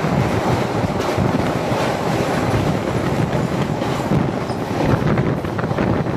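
Steady rumble and rattle of trains running at speed, heard from aboard a moving train as a passenger train of red Indian Railways LHB coaches passes close by on the next track.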